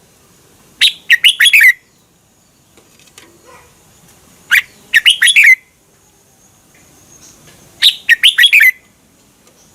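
Red-whiskered bulbul singing three short, rapid phrases of bright, warbling notes, each about a second long and a few seconds apart.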